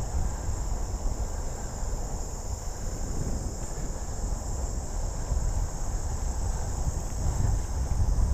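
Steady high-pitched chorus of crickets or similar insects, held without a break, over a low, gusty rumble of wind on the microphone.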